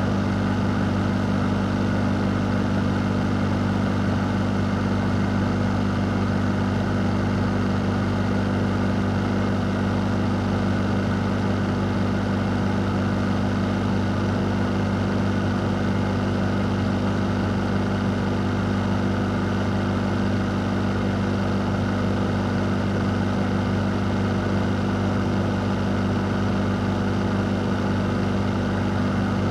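Electric fan running steadily: a constant low motor hum under an even rush of air, with no change in speed.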